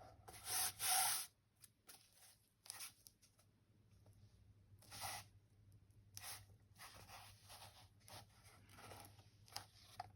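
Fabric rustling and rubbing against the cardboard of a binder cover as it is shifted and smoothed into place by hand, in short scattered bursts, the loudest about a second in.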